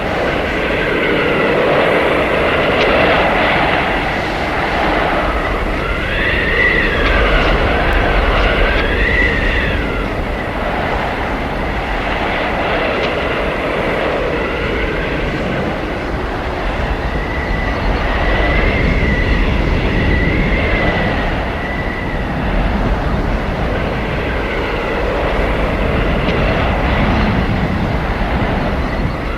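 Howling blizzard wind: a continuous rushing roar that swells and eases in gusts every few seconds, with a high whistle that rises and falls over it.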